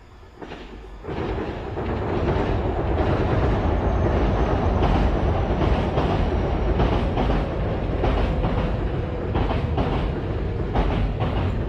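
Electric commuter train passing close by, a loud steady rumble with the clickety-clack of its wheels over the rail joints. It swells in over the first second or so, then holds.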